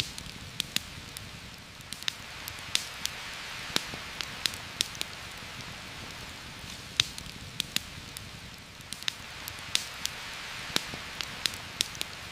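Heavy rain falling steadily through a forest canopy, with many sharp, irregular ticks standing out above the steady hiss.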